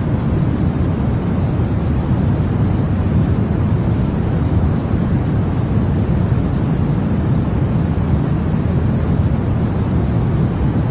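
Continuous white noise for baby sleep: a steady, deep rushing hiss with most of its weight in the low end, unbroken and unchanging in level.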